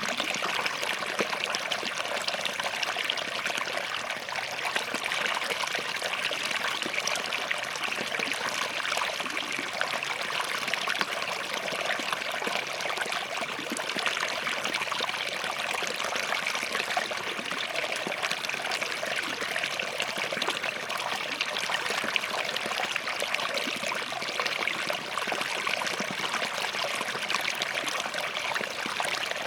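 Small forest stream flowing and trickling over rocks, a steady splashing rush without pauses.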